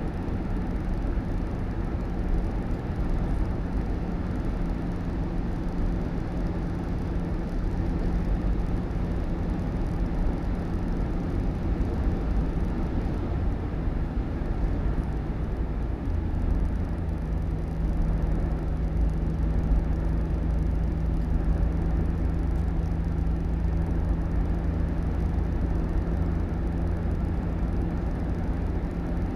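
Steady vehicle engine and road rumble with a constant hum; about halfway through, the hum drops slightly in pitch and the low rumble grows louder.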